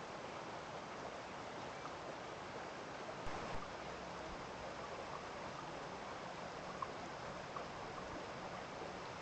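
Small stream running steadily, with a few faint ticks over the flow.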